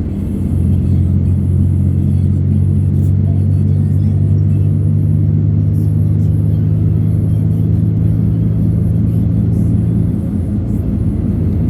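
A road vehicle running at a steady speed, its engine a constant low drone that changes slightly about ten seconds in, with music playing over it.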